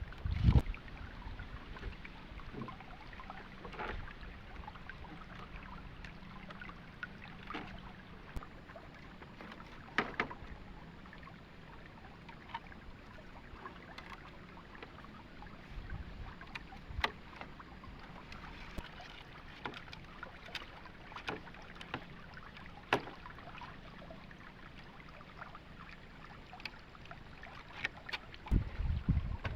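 Steady hiss of water, from the river or rain, with occasional sharp knocks and taps scattered through it.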